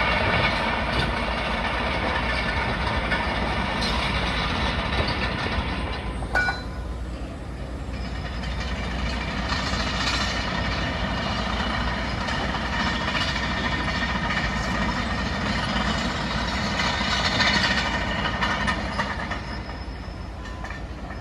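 Heavy diesel plant and lorries running steadily, with a steady high mechanical whine. The whine falls away about six seconds in and then builds again.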